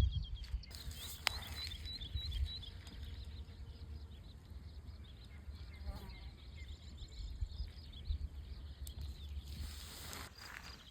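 Songbirds chirping in runs of short, quick, high notes, most plainly in the first few seconds and again near the end, over a steady low rumble of breeze on the microphone.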